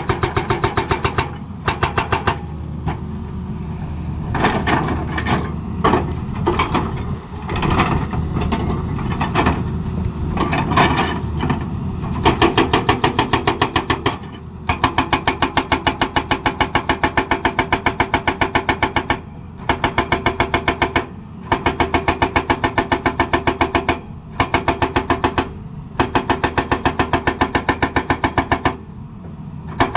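Hydraulic rock breaker on a Tata Hitachi excavator hammering at a rapid, even rate over the running diesel engine. For the first part it goes more irregularly, then in bursts of one to five seconds with short pauses between them.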